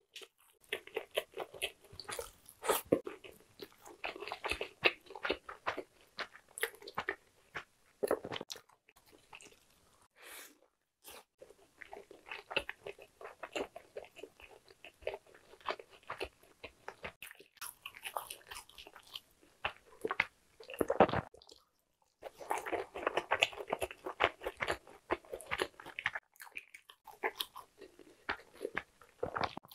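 Close-miked chewing of crispy fried chicken: crunching and crackling bites in bursts, broken by a few short pauses.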